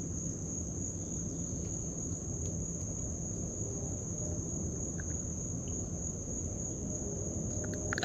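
Insect chorus: a steady, unbroken high-pitched trill from crickets.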